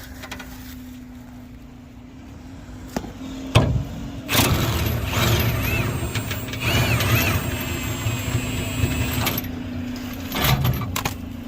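Milwaukee 18-volt cordless impact wrench hammering out the bolt that holds the spare-tire bracket. It runs for about five seconds starting a few seconds in, then gives a short burst near the end.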